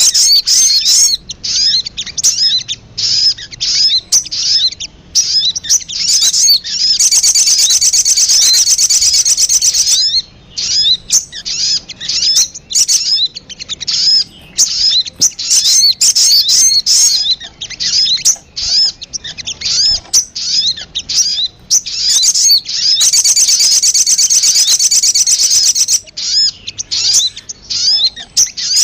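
Recorded sogon sunbird calls played as a lure: a busy stream of rapid high chirps and short sweeping notes, broken twice by a continuous fast trill of about three seconds.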